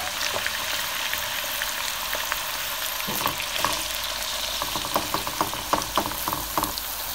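Diced sweet potato frying in hot oil in a nonstick pan, a steady sizzle. From about three seconds in, a spatula stirring the cubes knocks and scrapes against the pan several times a second.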